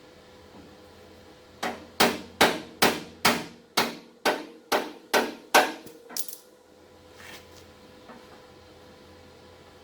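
A hammer striking a steel body panel: a run of about eleven sharp metallic blows, roughly two a second, each ringing briefly, ending with a couple of lighter taps.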